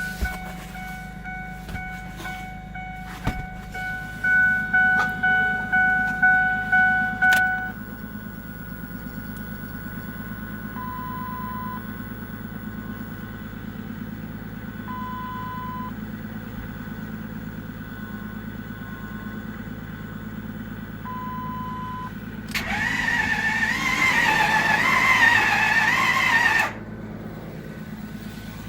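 Ford 6.4 L Power Stroke V8 diesel being cranked on the starter without catching, a steady low churning, as the anti-theft system keeps it from starting. A two-tone chime dings repeatedly over it for the first seven seconds, short beeps come every few seconds, and a loud warbling tone sounds for about four seconds near the end.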